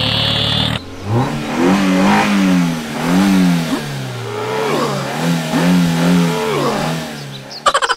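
Vehicle engine revving, its pitch rising and falling over and over, after a short steady idle in the first second.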